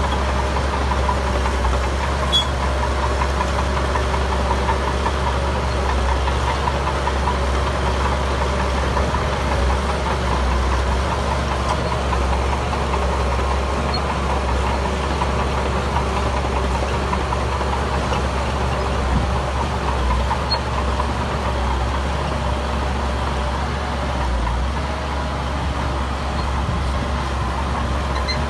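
Diesel engine of heavy earthmoving machinery running steadily with a continuous low rumble.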